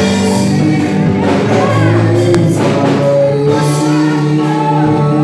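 Gospel worship music: voices singing held notes over instrumental accompaniment.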